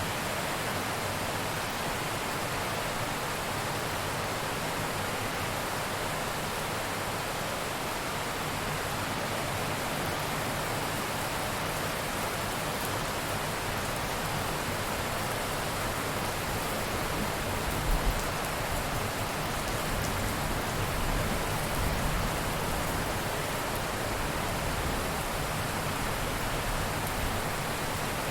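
Steady heavy rain falling in an even wash. About two-thirds of the way through comes a brief low thump, followed by a low rumble of distant thunder.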